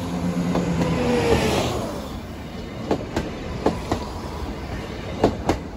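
Train passing over a level crossing: its engine tone drops in pitch as it goes by and the rush of the train fades, then the wheels click over the rail joints a handful of times.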